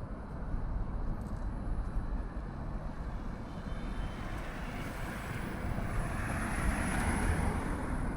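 Steady rumble of road traffic, with a vehicle passing close that swells louder about two-thirds of the way through and then fades.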